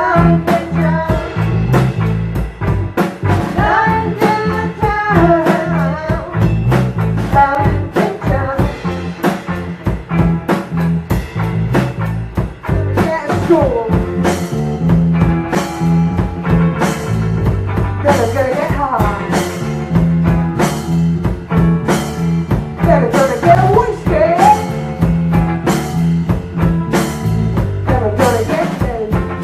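Live rock band playing a song: a drum kit keeps a steady beat under a bass line and electric guitar, with gliding melodic phrases coming back every few seconds.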